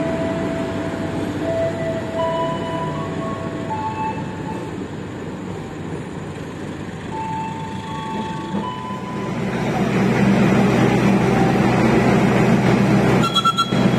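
Passenger train rolling slowly along a station platform: a low rumble with a few high held tones over it. From about ten seconds in, a louder, steady low hum of a train's diesel engine running while it stands at a platform.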